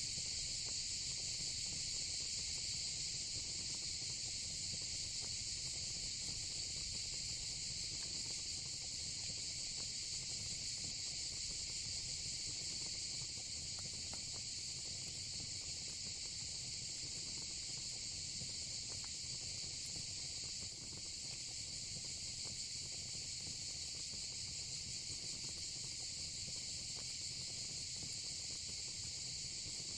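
Steady, unbroken, high-pitched chorus of night insects (crickets and cicadas), with a faint low rumble and an occasional faint crackle of the fire pit beneath.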